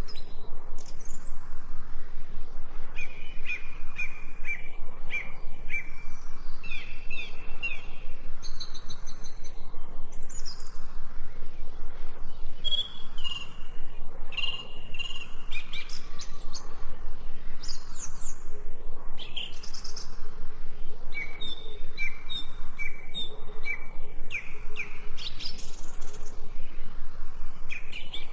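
Songbirds chirping and singing in repeated short series of quick notes and rising and falling whistles, over a steady low hum.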